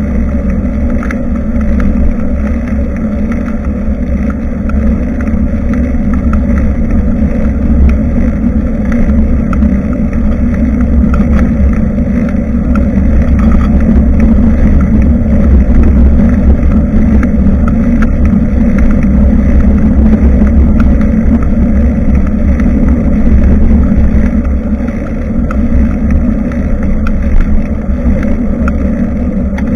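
Steady, loud low rumble of wind buffeting an action camera's microphone on a moving bicycle, with faint scattered ticks.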